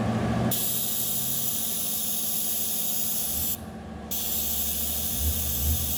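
Pressurised spray hissing in two long bursts, the first about three seconds long, then a half-second break, then a second burst of about two seconds. A low rumble builds underneath near the end.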